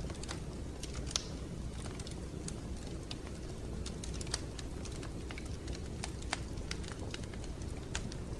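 Wood fire crackling in a fireplace: irregular sharp pops and snaps over a steady low rumble, with a louder pop about a second in.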